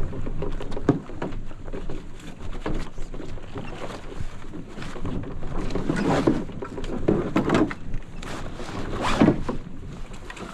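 Water splashing and slapping against a sailing canoe's hull in choppy water, with irregular surges and a few light knocks.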